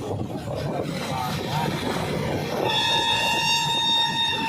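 Train running with a rumbling noise; about two and a half seconds in, its horn sounds one steady high note that is held.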